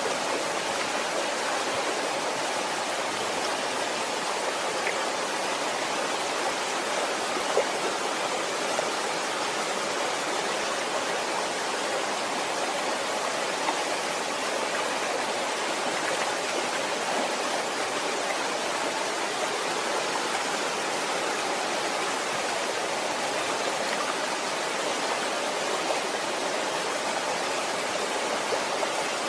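Waterfall or cascading stream: water rushing steadily, with small splashes and drips here and there.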